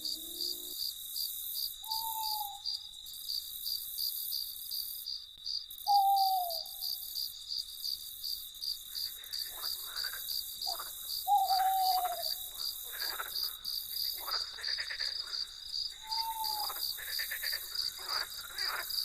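Crickets chirping steadily in a fast pulsing trill. A short falling hoot sounds four times, several seconds apart, and from about halfway through frogs croak in quick rasping bursts.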